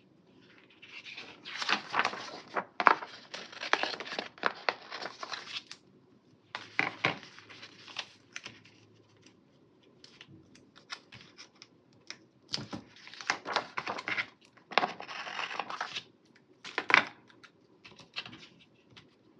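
Paper stickers being peeled off a sticker sheet and the sheet rustling, in several bursts of crackly rustling with quiet gaps between.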